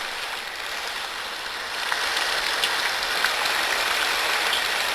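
Homedics SoundSleep sound machine playing its rain sound: a steady hiss of falling rain with faint drop ticks, growing louder about two seconds in.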